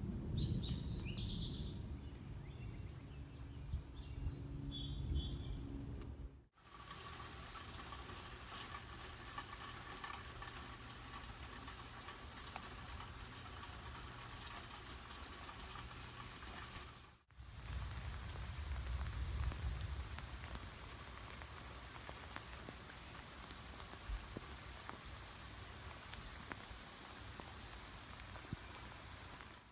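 Three short nature recordings cut together: a few high bird chirps over a low wind rumble, then a steady hiss of falling rain, with a low rumble returning in the last clip.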